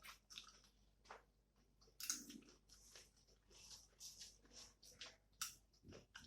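Faint chewing and crunching of crisp food, short irregular crunches about once or twice a second.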